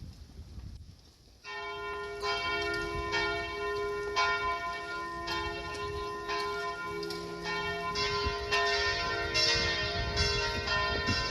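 Bells ringing a sequence of different notes, starting about a second and a half in. They are struck roughly once a second, and each note rings on under the next.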